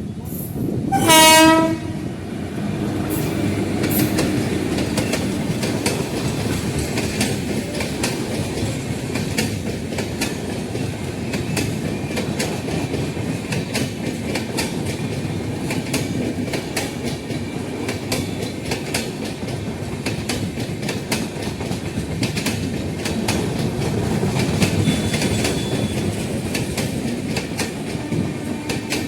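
An Indian Railways train horn gives one short blast about a second in. After it, a passing train's coaches rumble by steadily, with wheels clicking over the rail joints.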